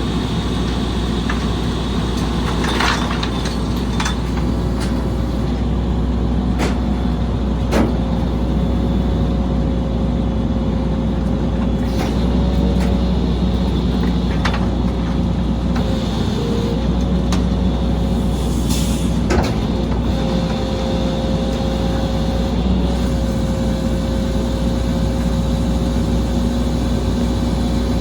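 Rear-loader garbage truck running at work: a steady diesel rumble with a steady whine over it, broken by scattered metallic knocks and a couple of short air hisses.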